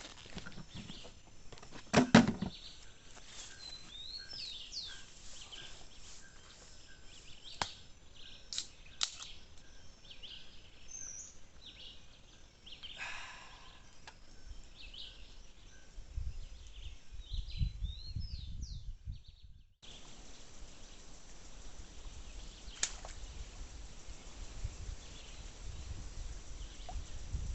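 Outdoor nature ambience with birds chirping and calling, broken by a few sharp knocks; the loudest knock comes about two seconds in. A low rumble comes and goes in the second half, and the background changes abruptly about twenty seconds in.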